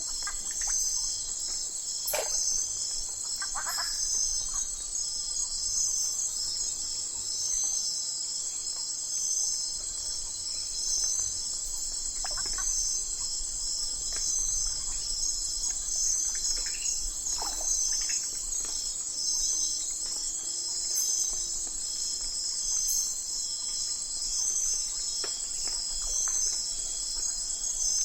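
Dense night chorus of crickets and other insects, a steady high pulsing trill. A few brief, falling calls from other animals break through now and then.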